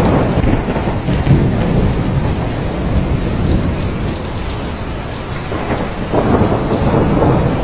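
Thunderstorm: steady heavy rain with rolling thunder rumbling low, easing off in the middle and building again about six seconds in.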